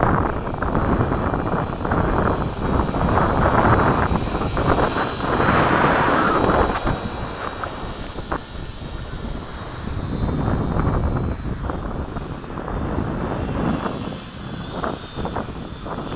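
Small electric RC model B-17 flying overhead, its motors giving a thin high whine that wavers in pitch as it passes, under gusty wind buffeting on the microphone.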